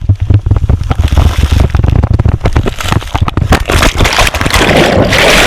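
Falling water from a waterfall beating on a GoPro and its microphone: a dense crackle of drops and low thuds. About halfway through, a loud rushing splash builds up.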